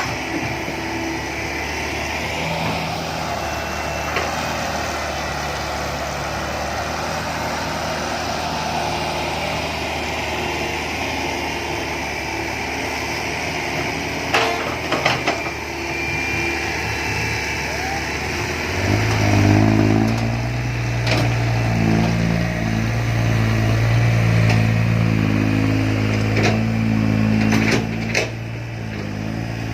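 Heavy diesel engine of construction machinery running steadily. About two-thirds of the way through it drops into a deeper, louder drone under load. A few sharp knocks come in the middle and near the end.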